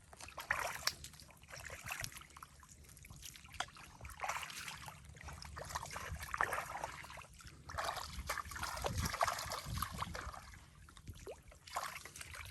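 Shallow muddy water trickling and sloshing in irregular bursts, with small clicks and a few low thuds around the middle.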